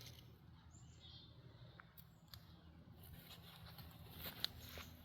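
Near silence: faint outdoor ambience with a steady low hum and a few small scattered clicks.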